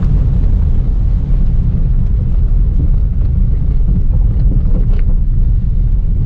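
Subaru WRX rally car driving hard on a dirt course, with a steady deep rumble from the engine and tyres on the loose surface. A few faint ticks of gravel come through.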